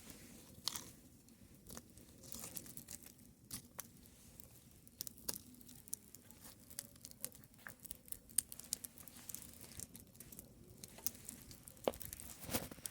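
Wood bonfire crackling, with irregular sharp pops and snaps, a few louder ones near the end.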